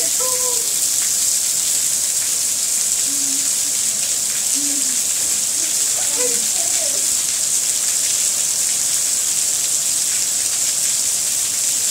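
Heavy rain pouring down steadily, a dense even hiss of a downpour on the balcony and the ground below, with a few brief voice sounds near the start and about six seconds in.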